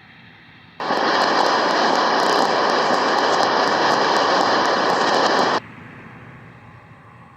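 Shortwave radio static from a Tecsun PL-880 receiver being tuned between stations: a faint hiss, then a loud, even rushing noise that starts abruptly about a second in and cuts off suddenly about five seconds in.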